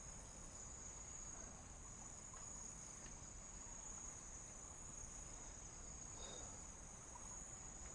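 Crickets chirring at night in a faint, steady, high-pitched drone.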